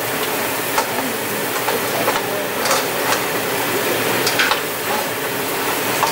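King crab legs sizzling in garlic butter in a frying pan on a stovetop, a steady hiss. Occasional sharp clicks come as the pieces are stirred and moved against the pan with a utensil.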